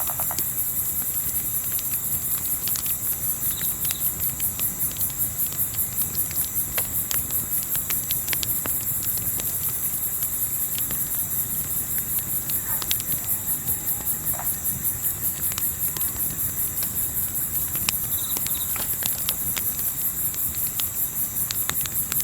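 Crickets chirping in a steady pulsing trill, with scattered crackles and pops from a campfire over a low rumble of wind.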